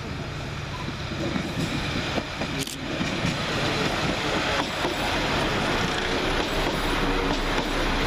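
West Midlands Railway Class 172 Turbostar diesel multiple unit pulling into the platform: underfloor diesel engines and wheels running on the rails, growing louder about three seconds in.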